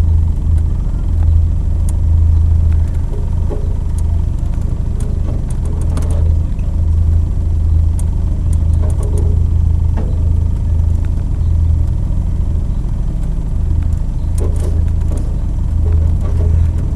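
Engine of an open two-seater sports car running at low speed, a steady low rumble heard from on board the car, with a few light clicks.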